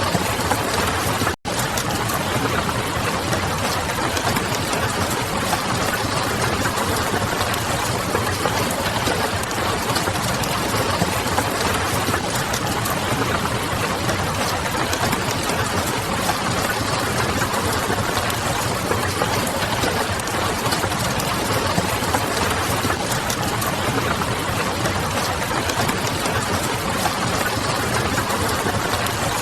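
Steady rain pattering against a window mixed with the crackle of a wood fire, over a low city hum. The sound cuts out for an instant about a second and a half in.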